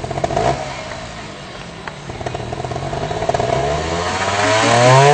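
Trials motorcycle engine blipping and revving as a rider works through a section. It gives short bursts of throttle, then a longer rising rev that is the loudest part, near the end.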